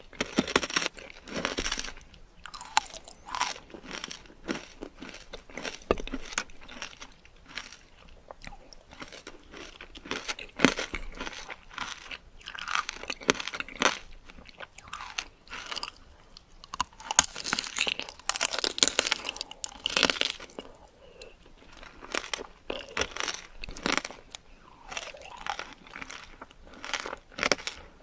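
Candied fruit being bitten and chewed: the hard sugar coating cracks and crunches in irregular clusters of bites, with chewing between them.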